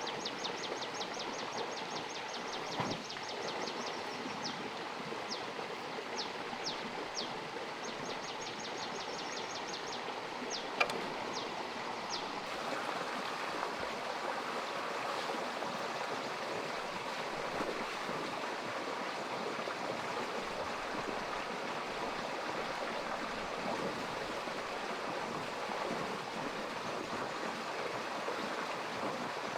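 Steady rushing outdoor noise like running water. Rapid runs of high, falling chirps sound over it for about the first twelve seconds.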